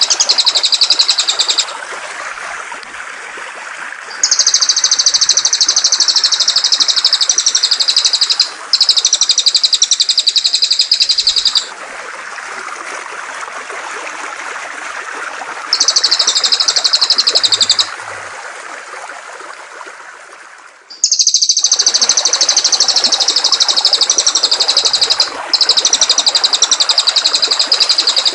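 A songbird delivering phrases of very rapid, high trilled notes, each lasting a few seconds with short gaps between, over the steady rush of flowing water. The water briefly dips and comes back louder about three quarters of the way through.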